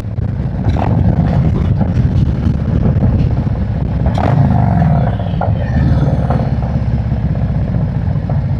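Harley-Davidson V-twin motorcycle engine running steadily while riding, with its pitch dipping and rising again about halfway through as the speed changes.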